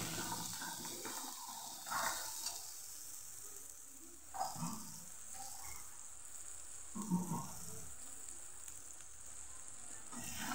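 Tomato and onion masala sizzling in oil in a metal kadai, with a steady frying hiss, while a steel spoon stirs it. A few louder stirring strokes come about two, four and a half, and seven seconds in.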